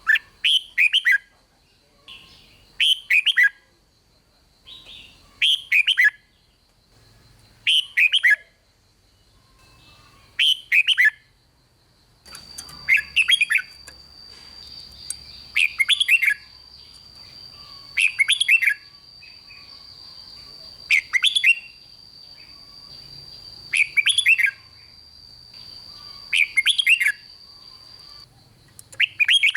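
Red-whiskered bulbul singing the same short, loud whistled phrase over and over, about a dozen times, one every two and a half seconds. A faint steady high tone runs under the song through most of the middle and later part.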